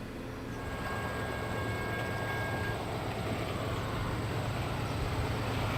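Approaching diesel freight train: a deep locomotive rumble grows steadily louder. A faint, high, steady tone holds for about two seconds starting half a second in.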